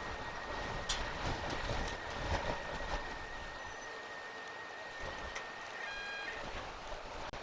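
Storm wind buffeting an outdoor webcam's microphone: an uneven, rumbling noise with scattered clicks. A short pitched tone sounds briefly about six seconds in.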